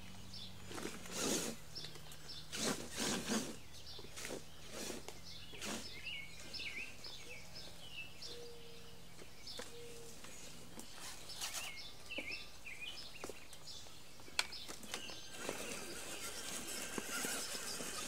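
Outdoor ambience with a small bird chirping in short repeated calls and a few sharp rustles or knocks early on. Near the end, a rising rustling whir as a Traxxas E-Maxx electric RC monster truck drives in through the weeds and brush.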